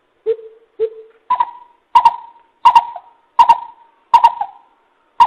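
A coucal calling a series of short, evenly spaced hoots, a little more than one a second. The first two notes are lower, and the rest step up to a higher pitch.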